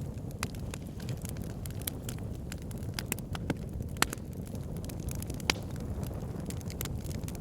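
Wood fire burning in a fireplace: logs crackling with irregular sharp pops over a steady low rumble of flames, the loudest pops about four and five and a half seconds in.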